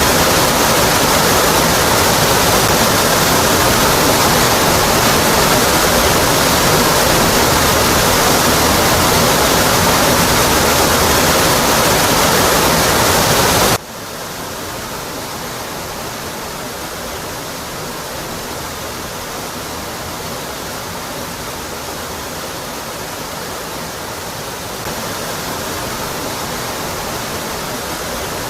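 Waterfall, a steady rush of water pouring onto rock. About halfway through, the sound drops suddenly to a quieter, duller rush, and it rises a little near the end.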